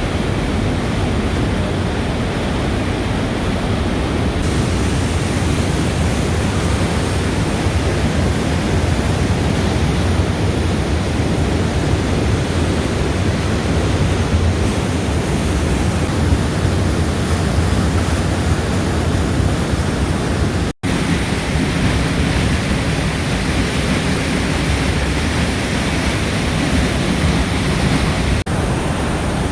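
Waterfall pouring at close range: a loud, steady rush of falling water, heaviest in the low end. It cuts out for an instant about two-thirds of the way through.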